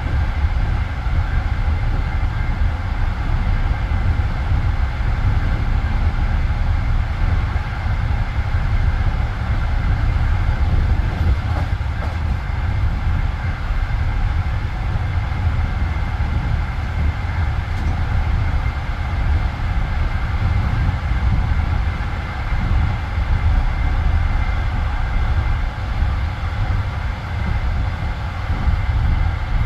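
Passenger train coach running at speed, heard from inside: a steady low rumble of wheels on the rails with running noise, without a marked clickety-clack beat.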